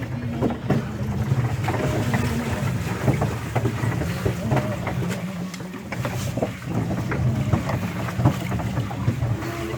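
Small hand-driven boat under way on the water, with wind rumbling on the microphone and irregular knocks and clicks from the boat throughout.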